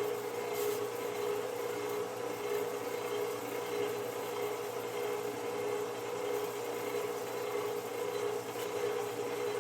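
An electric motor running steadily with a constant hum.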